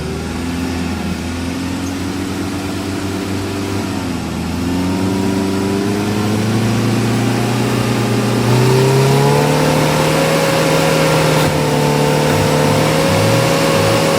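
Off-road vehicle's engine working under load on a trail. The revs climb twice, about a third of the way in and again past the middle, and then hold high and steady.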